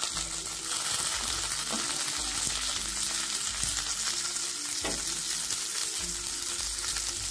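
Stuffed bitter gourds sizzling steadily as they shallow-fry in a spoonful of oil in a nonstick pan. A wooden spatula turns them at the start, and there are a couple of light clicks.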